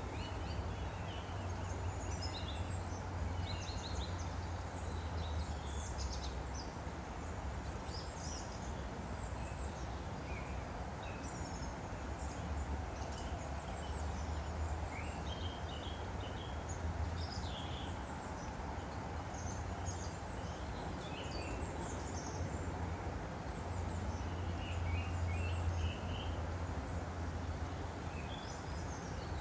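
Woodland stream flowing with a steady rush of water, while small birds chirp and sing in short phrases throughout.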